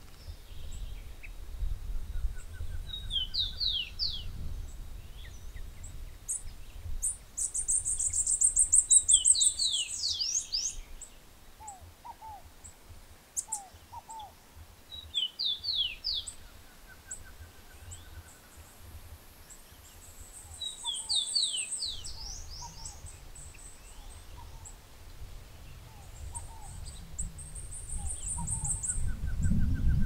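Wild birds singing. One repeats a short phrase of quick, high, falling notes about every six seconds, and a high buzzy trill comes three times, with a few soft lower notes between. A low rumble runs underneath and drops out for several seconds in the middle.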